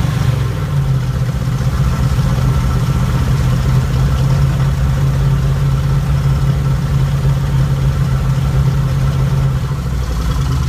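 Chrysler 318 V8 of a 1972 Dodge B200 van idling steadily through a new exhaust with Thrush mufflers, with a slight drop in pitch about half a second in and a deeper rumble near the end.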